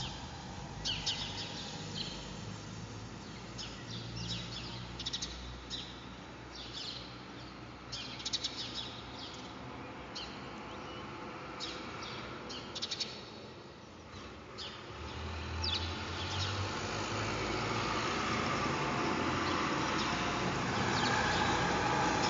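Small birds chirping, short high calls again and again, in the first two-thirds; in the last third a steady noise builds and grows louder, drowning them out.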